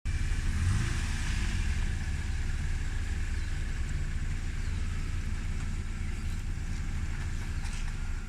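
A mini truck fitted with over-tire tracks, running with a steady low rumble.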